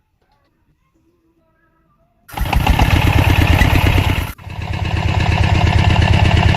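Faint guitar notes, then about two seconds in a small engine starts abruptly and runs loud with a rapid, even chugging pulse, breaking off briefly about two seconds later before running on.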